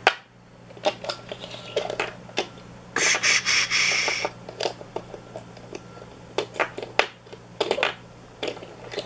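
Small die-cast toy tractor, mostly plastic and partly metal, being handled and worked: scattered light clicks and knocks from its parts, with a scraping rattle lasting about a second, about three seconds in.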